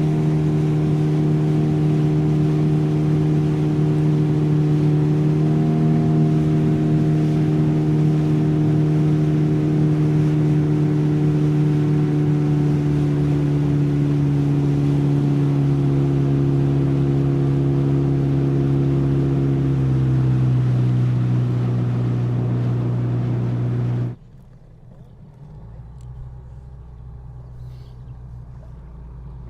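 Motorboat engine running steadily under way, its pitch dropping about 20 seconds in as it slows. About 24 seconds in the engine sound cuts off abruptly, leaving a much quieter low hum.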